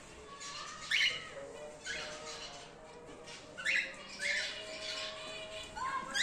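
Cockatiels in an aviary colony squawking: several short harsh calls, the loudest about a second in and again around four seconds in.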